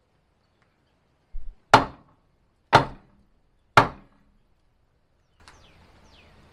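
Three heavy hammer blows on wood, about a second apart, each a sharp crack with a short ring, preceded by a softer low thump.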